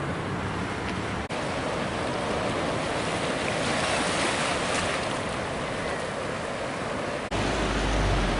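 Ocean surf breaking and washing on a beach, an even rushing noise. It cuts off abruptly about a second in and resumes, and near the end a sudden low rumble takes over.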